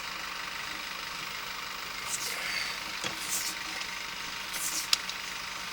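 Steady engine-like running noise with a few short swishes and two sharp clicks.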